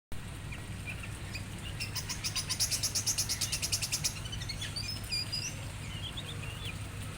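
Aviary songbirds calling: a rapid, high chirping trill of about nine notes a second for about two seconds, followed by scattered short whistled notes and rising and falling calls.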